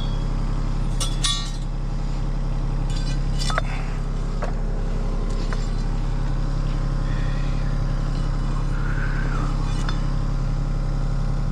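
Kubota diesel engine idling steadily while a thrown rubber track is worked back onto its rollers, with several sharp metal clinks and clanks of steel on steel, mostly in the first half.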